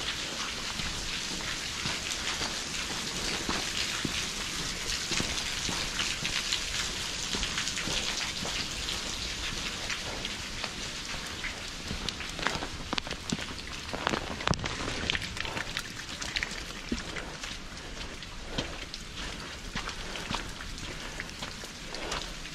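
Steady patter of rain on the wet rock and snow, with a few sharper footsteps on the trail past the middle.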